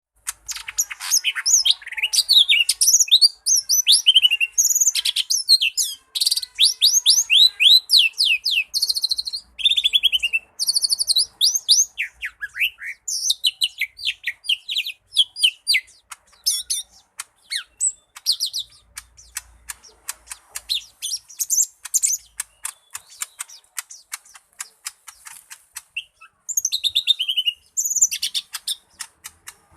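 Lesser green leafbird (cucak ijo mini) singing a long, fast, varied song of chirps and rising and falling whistled sweeps, broken in the second half by runs of rapid ticking notes.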